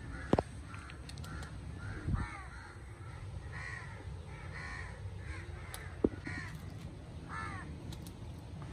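A bird calling over and over in short calls, about two a second, with a few sharp knocks in between.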